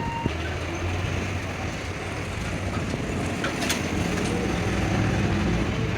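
A steady low mechanical rumble and hum, with a few short light clicks a little past halfway.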